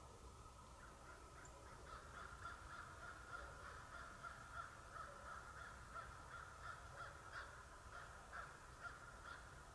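Crows cawing faintly in a long run of calls, about two a second, beginning about two seconds in.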